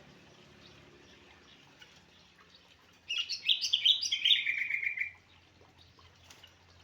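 Yellow-vented bulbul (trucuk) singing one rapid, chattering phrase of about two seconds, starting about three seconds in and dropping to lower notes at the end, with faint chirps around it.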